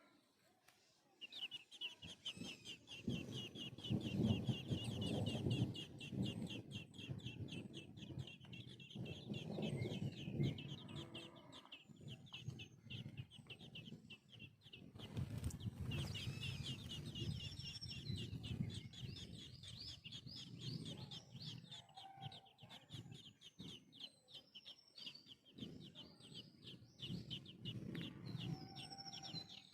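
Birds calling: a fast, nearly continuous run of high chirps, broken by a short pause about halfway, over irregular lower, rougher sounds.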